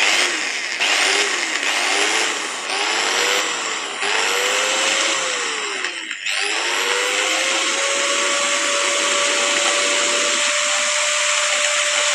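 Angle grinder motor switched on in short bursts, its whine rising and falling several times, then spinning up and running steadily at full speed. With its gears newly replaced it runs with no gear noise, and it holds speed under load.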